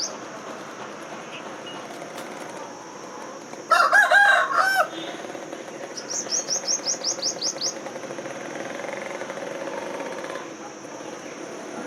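Birds calling: a loud, wavering call about four seconds in, then a fast run of about ten short, high, falling notes two seconds later, over a steady high hiss.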